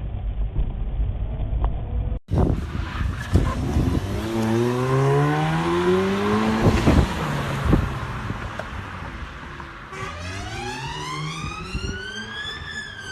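Road traffic with a car engine accelerating, its pitch climbing for a few seconds. Near the end a long tone rises and then falls.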